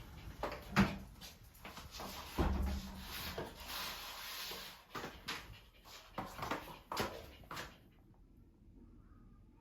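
Household handling noises: a run of sharp clicks and knocks with rustling in between. It drops to a low hush for the last second and a half.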